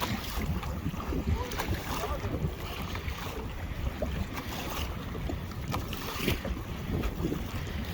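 Wind buffeting the microphone in a steady low rumble, with water slapping and splashing against a kayak hull in short scattered splashes.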